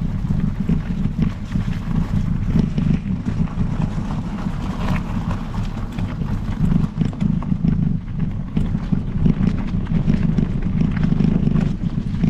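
Specialized Epic Pro mountain bike riding along a trail: a steady low rumble of wind buffeting the microphone and tyres rolling, with frequent small clicks and rattles from the tyres and bike.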